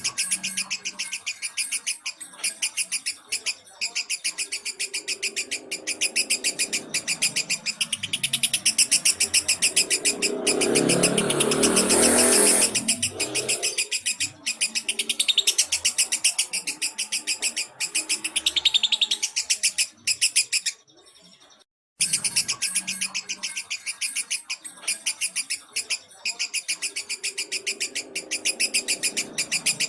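Lovebird singing a long, rapid, high-pitched chattering trill, the continuous rattling song that keepers play as a training or trigger call. The song breaks off briefly about two-thirds of the way through.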